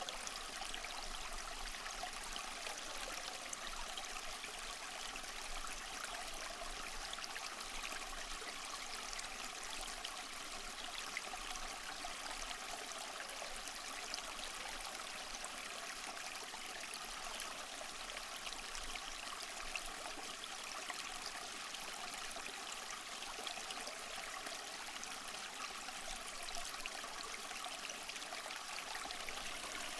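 Small waterfall splashing and trickling over mossy rocks, a steady even rush of water with no breaks.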